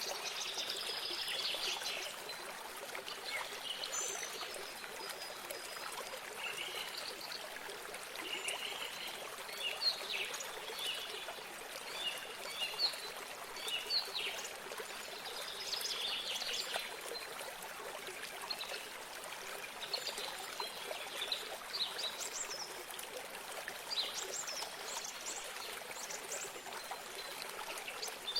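Water trickling steadily in a small stream, with birds chirping in short high calls again and again over it.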